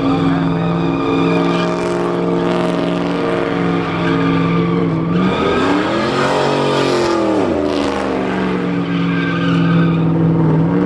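A car engine held at high revs with tyres squealing. About halfway through, the engine pitch swells up and comes back down.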